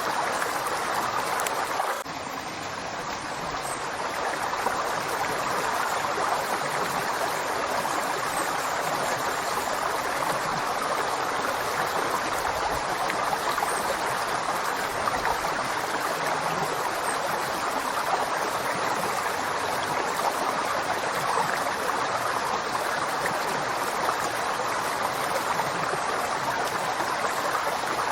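River water flowing, a steady even rush. About two seconds in it briefly drops a little in level and builds back.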